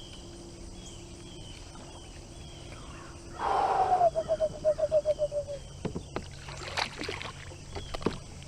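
A cast with a fishing reel: a short whoosh about three and a half seconds in, then the reel's spool whirring in quick pulses that fall slowly in pitch for about two seconds, followed by a few sharp clicks. Faint, short repeated chirps sound in the background.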